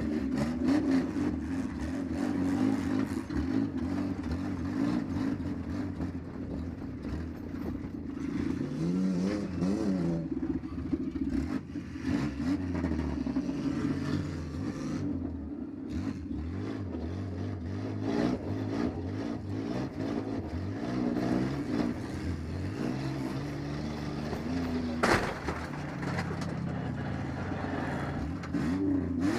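Minivan engine running and revving up and down repeatedly, heard from inside the car in a demolition derby, with clattering and knocks. There is one sharp bang near the end.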